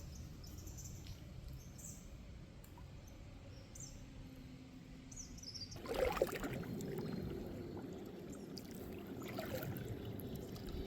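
Faint bird chirps, then about six seconds in water starts splashing and sloshing around a kayak and keeps on.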